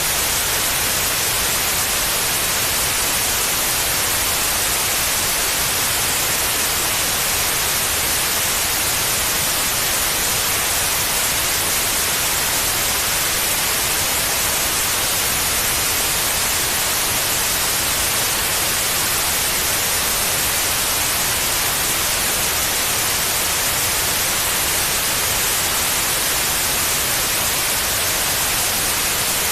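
Steady white noise: an even, unchanging hiss, strongest in the high range, played as a sleep aid for babies.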